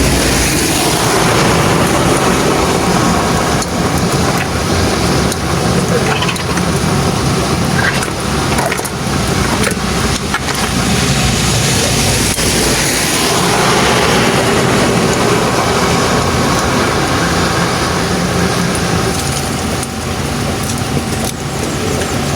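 Heavy truck engine running steadily, with the overall noise swelling twice, about a second in and again around thirteen seconds.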